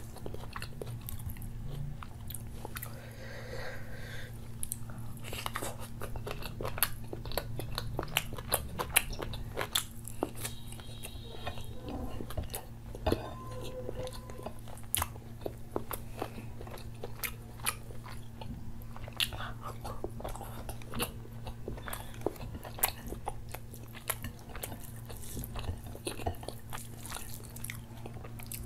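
Close-miked mouth sounds of a person eating curry-soaked rice and chicken by hand: wet chewing and many sharp lip-smacking clicks throughout, over a low steady hum.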